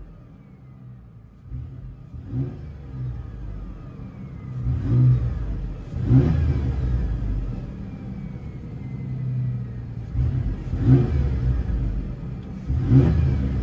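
Ford Ranger 3.0L V6 idling and revved in several sharp blips, each rising and falling back, heard from inside the cab. The exhaust is straight-piped but still runs through its five catalytic converters, which keep it fairly subdued, like a muffled exhaust.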